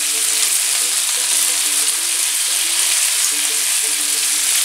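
Diced cooked ham and freshly added strips of fontina cheese sizzling steadily in butter and oil in a frying pan.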